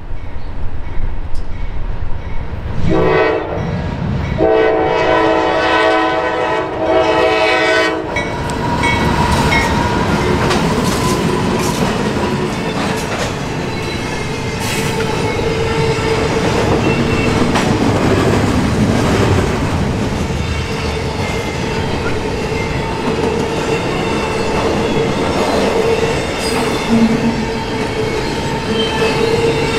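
Norfolk Southern GE AC44C6M diesel locomotive sounding its air horn at a grade crossing: a short blast about three seconds in, then a long one that stops about eight seconds in. The double-stack intermodal container train then rolls past with a steady rumble and wheel clatter, and a steady tone runs under the clatter.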